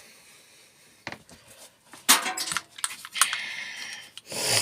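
Small metal and plastic parts from a dismantled microwave clinking and clattering on a work table: a few sharp knocks, then a short scraping noise.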